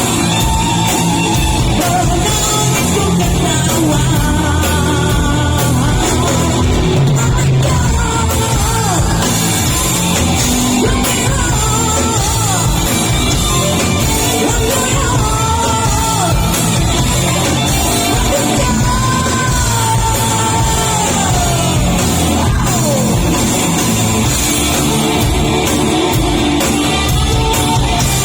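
Rock song performed live: a male singer belting over amplified guitar and band backing, in the style of an old-school Malay rock singer.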